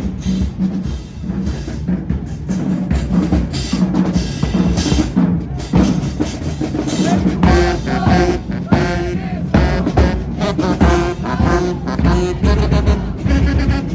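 High school marching band playing: a steady drumline beat with bass drum, and horns carrying a melody over it from about halfway through.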